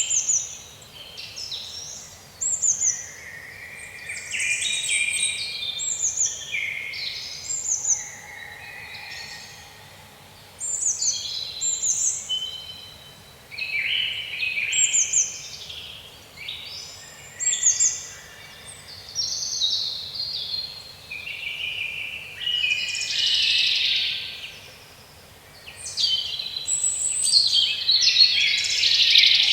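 Songbirds singing in a woodland chorus: a run of quick, high phrases of chirps and downward-sliding notes, several voices overlapping and following one another. A faint steady hiss sits under them.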